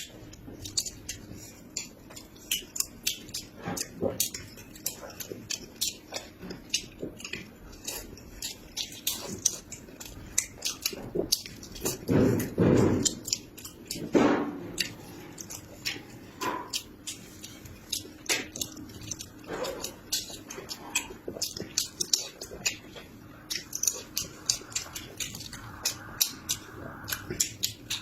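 Close-miked chewing and biting of food, a dense run of wet smacking clicks, with a louder, longer bite or slurp about halfway through.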